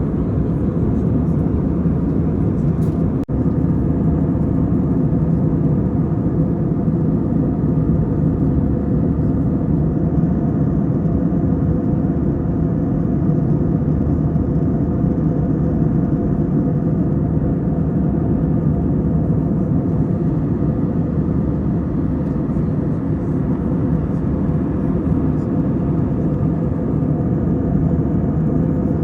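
Steady cabin roar of an Airbus A320-family airliner in cruise, jet engines and rushing airflow heard from inside the passenger cabin. A brief click about three seconds in.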